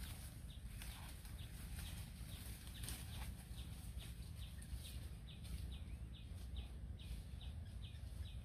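A small bird repeating a short, high, falling chirp about twice a second, over a steady low rumble.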